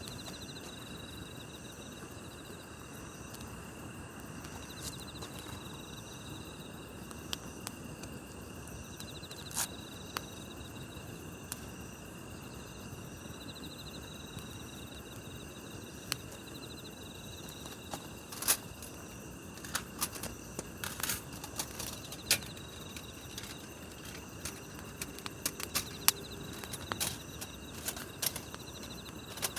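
Night grass insects trilling steadily, one pulsing trill coming and going every few seconds, over a campfire crackling with sharp pops that come more often in the second half.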